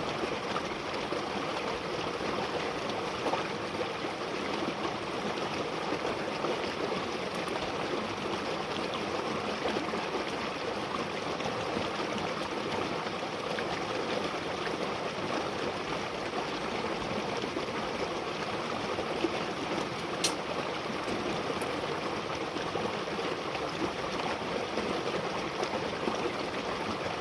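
Steady rush of a flowing stream, with a few isolated sharp clicks, one about twenty seconds in.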